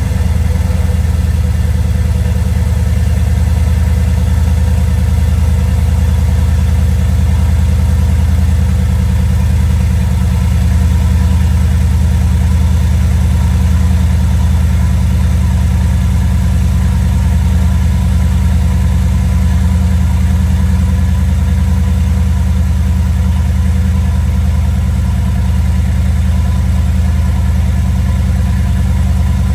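2016 Mercedes-AMG GT S's 4.0-litre twin-turbo V8 idling steadily on a cold start, moments after firing up.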